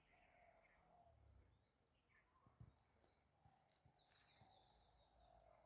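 Near silence outdoors with faint, scattered bird chirps and a soft knock about two and a half seconds in.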